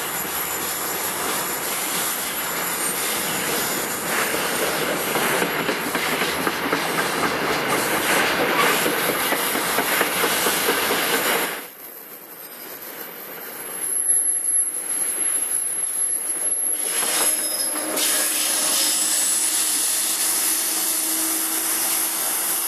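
NJ Transit Comet V coaches and their ALP-46A electric locomotive rolling past on the rails, with a steady rumble and hiss of steel wheels. The sound drops sharply about halfway, then the train noise comes back with a thin high wheel squeal.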